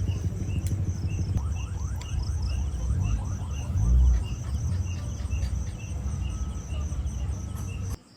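Insects, likely crickets, chirping in an even rhythm about twice a second over a steady low rumble outdoors; the sound cuts off abruptly near the end.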